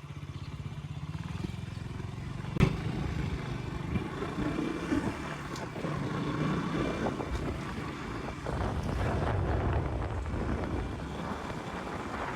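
KTM Duke 200's single-cylinder engine running while the motorcycle is ridden, with wind buffeting the microphone; a single sharp knock about two and a half seconds in.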